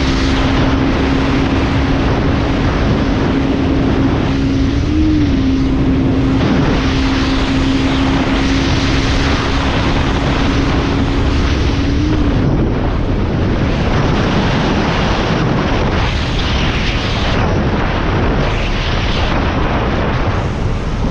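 Motorcycle riding at speed, heavy wind rush on the microphone over the running engine. A steady engine note holds for about the first twelve seconds, then sinks into the wind noise.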